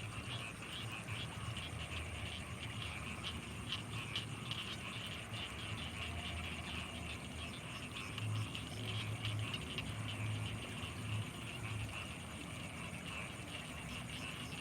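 Rice-field night chorus of frogs and insects: a dense, rapid chirring that goes on throughout, with a thin, steady high tone above it. Low pulsing calls come through more strongly from about eight to twelve seconds in.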